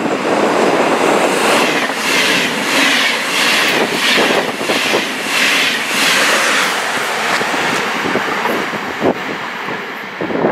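A train passing close by: a rhythmic rush that swells about twice a second as its cars go by, then scattered sharp clicks of wheels on the rails as it eases off toward the end.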